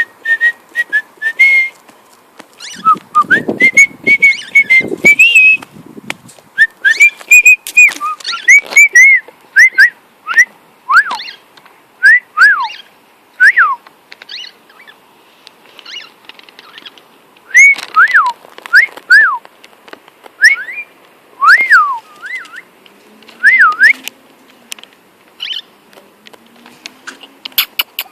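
Cockatiel whistling a song of short, clear notes that swoop up and down, repeated in phrases, with a brief low rustle about three seconds in.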